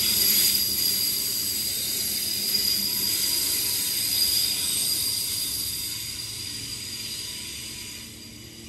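A train running past with a steady high tone over its rumble, fading steadily as it moves away.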